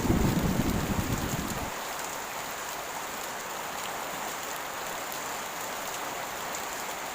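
Steady heavy rain hissing, with a low thunder rumble that carries on into the first second and a half and then dies away, leaving the rain alone.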